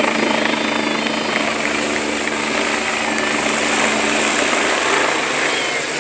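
Police helicopter flying past, a loud steady drone of rotor and turbine engine.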